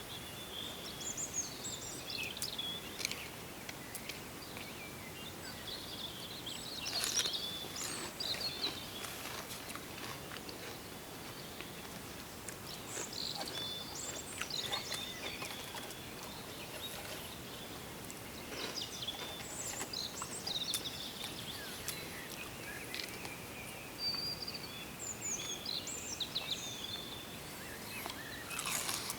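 Small birds chirping and calling in short bursts on and off, over a steady faint outdoor background, with a few sharp clicks.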